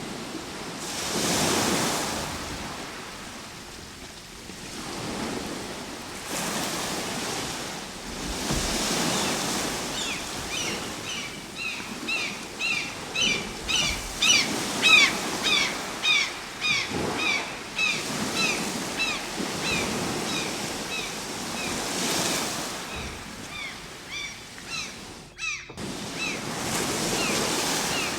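Ocean surf breaking and washing in, swelling and fading every few seconds. About a third of the way in, a bird starts calling over the waves in quick, short, falling notes, several a second, and keeps on until near the end, where the sound briefly cuts out.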